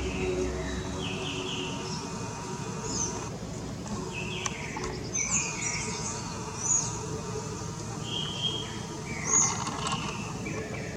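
Wild birds chirping and calling in short, repeated high notes and quick sweeps, over a steady low background noise.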